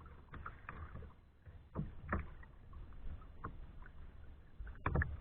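Kayak paddle strokes: blades dipping into the water and splashing at irregular intervals, the loudest near the end, over a low rumble.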